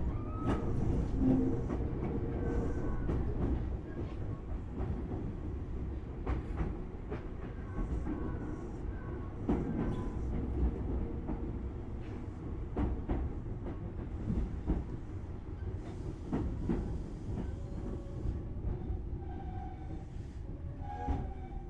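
Tobu 6050 series electric train running, heard from inside the car: a steady rumble with wheels clicking over rail joints. Faint short squeals come and go, and louder tones start just before the end.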